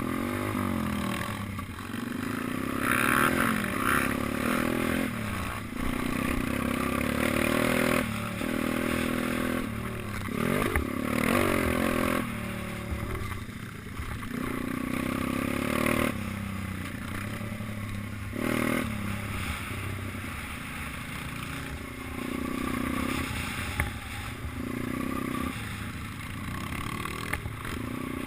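Small minibike engine revving up and dropping back again and again as it is ridden around a track, its pitch climbing and falling every few seconds.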